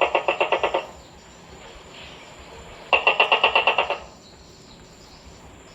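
Tokay gecko calling with a rapid rattling series of pulses, about ten a second: one series dies away within the first second and a full one of about a second comes around three seconds in.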